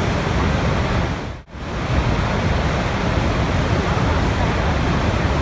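Steady rushing water, an even full wash of sound, broken by a brief drop-out nearly to silence about a second and a half in.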